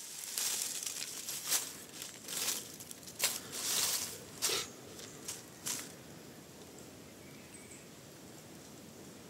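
Rustling and crinkling handling noise with several sharp crackles, dying away about six seconds in to a faint steady outdoor background.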